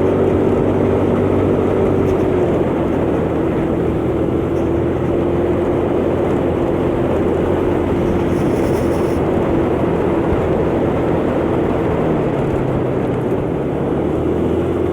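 125cc motor scooter engine running steadily while riding, over a steady rush of wind and road noise; its note dips slightly a couple of seconds in and rises again near the end.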